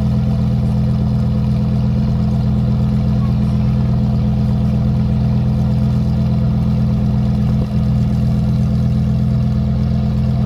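A sports car's engine idling steadily with a constant low hum, holding an even pitch and no revs.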